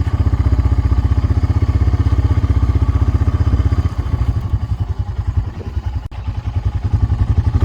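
Four-wheeler (ATV) engine running steadily under way, easing off for a few seconds past the middle, then picking back up near the end.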